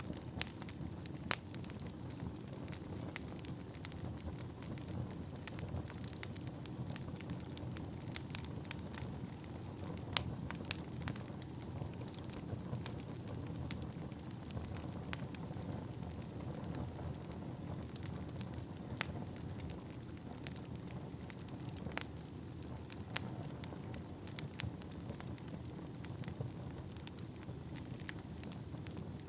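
Wood fire burning in a fireplace: a steady low rush of flames with frequent sharp crackles and a few louder pops from the burning logs. Near the end a faint thin whistle slides slightly down in pitch, like gas hissing out of a log.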